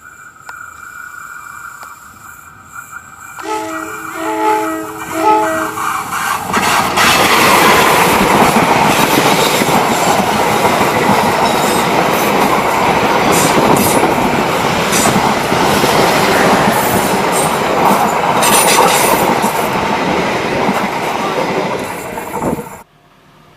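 A train's horn gives three short blasts, then the train passes close by, with loud rumbling and wheel clatter for about sixteen seconds before the sound cuts off suddenly near the end.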